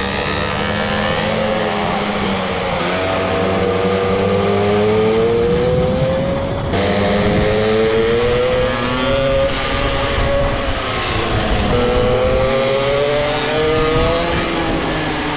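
Mini motorbike engines running at race pace, repeatedly climbing in pitch over a few seconds as they accelerate, then dropping as they ease off, about four times.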